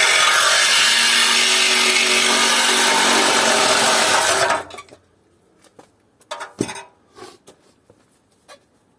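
Handheld power tool cutting through metal on an air conditioner unit, running steadily and then stopping abruptly about four and a half seconds in. A few light metal knocks and clinks follow.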